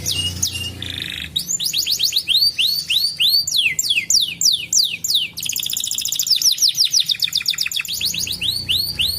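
Domestic canary singing a rapid run of repeated phrases: quick falling whistles, rising notes, a short buzzy note about a second in, and a fast trill in the middle.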